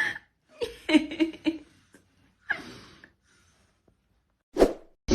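A person's voice in short breathy bursts, chuckling and sighing, about five times.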